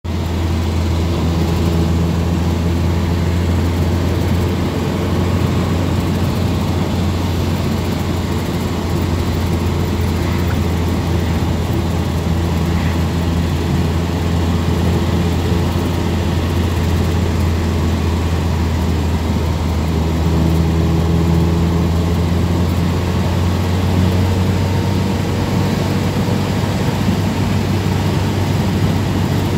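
1973 MG Midget's 1275 cc four-cylinder engine running steadily while the car drives along, heard from inside the cabin. A deep, steady engine drone sits over a constant hiss of road and wind noise.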